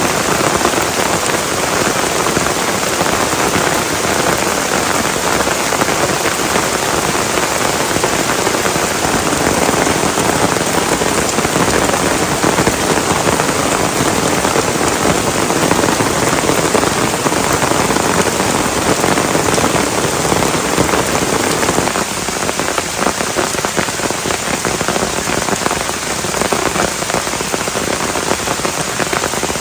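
Heavy rain pouring steadily, with a dense, even hiss of drops. It eases a little about three-quarters of the way through, and single drops stand out more.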